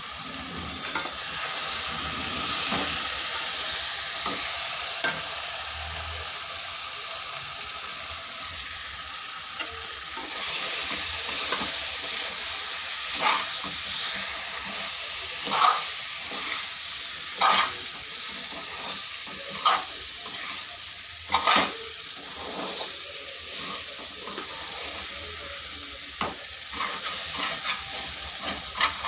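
Vermicelli sizzling in a kadhai, with a steady hiss, while a slotted spoon stirs it. The spoon scrapes and knocks against the pan every second or two, mostly in the second half.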